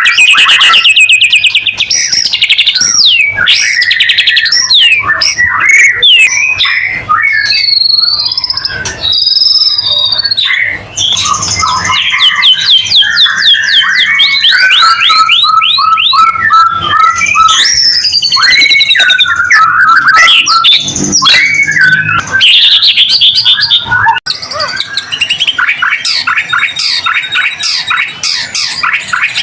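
White-rumped shama (murai batu) singing continuously: a fast, varied stream of whistles, sliding phrases and rapid trills.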